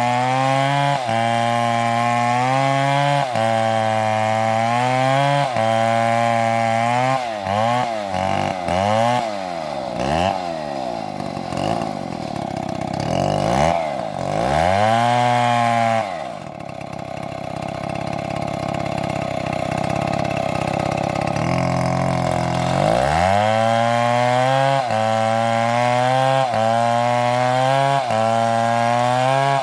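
Two-stroke chainsaw cutting wood, its engine pitch dipping and recovering about once a second as the chain bites. Midway it revs up and down, drops to a lower steady speed for several seconds, then revs back up about 23 seconds in and resumes the rhythmic cutting.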